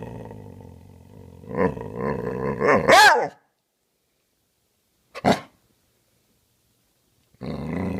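Dog play-growling, rising into high wavering yelps about three seconds in, then a single short bark about five seconds in; growling starts again near the end.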